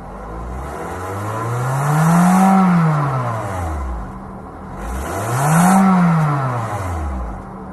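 1998 Toyota Corolla's four-cylinder engine heard through its exhaust, revved twice from idle. Each rev climbs smoothly and falls back over about three seconds, and the engine settles back to a steady idle near the end.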